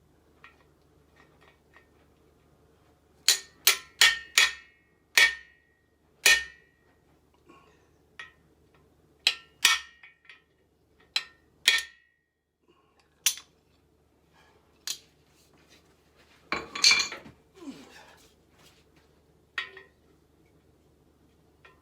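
Hammer tapping a socket on an extension to drive a new core plug into a Chevy V8 engine block: a series of sharp, ringing metal strikes, irregularly spaced and coming in groups. A longer metal clatter follows near the end.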